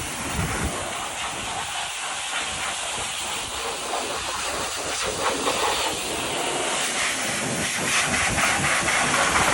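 Pressure washer jet spraying water against a car's bodywork to blast off mud: a steady hiss with spattering, growing louder near the end.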